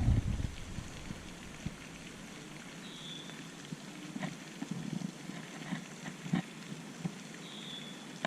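Light rain falling steadily, with scattered small ticks and two brief high chirps, one about three seconds in and one near the end.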